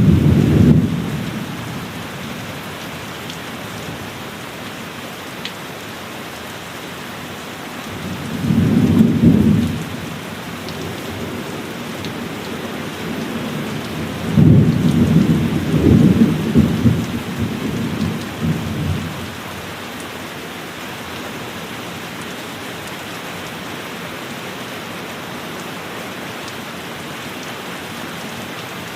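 Heavy rain falling steadily, with thunder rumbling three times: once right at the start, again about nine seconds in, and a longer rolling peal from about fourteen to nineteen seconds in.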